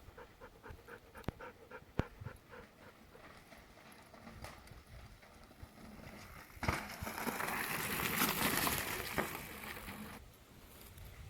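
Quick rhythmic panting, about four breaths a second, fading out over the first few seconds, with a couple of sharp clicks. Then, a little past the middle, a loud rush of wind and rolling noise from riding a mountain bike lasts about three seconds and stops abruptly.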